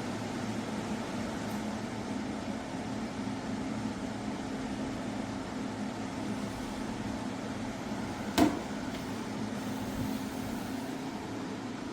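KGOGO 7000 BTU portable air conditioner running: a steady whooshing fan noise over a low, even hum, loud enough that it is called simply too loud. A single sharp knock sounds about eight seconds in.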